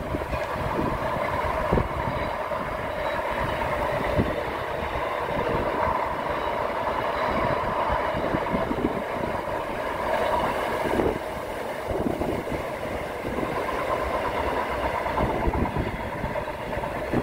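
Freight train wagons rolling past: a steady rolling rumble with uneven low clatter from the wheels.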